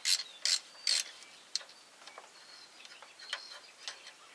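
Hand ratchet wrench working a bolt: three quick ratcheting strokes in the first second, then a few scattered light clicks and taps.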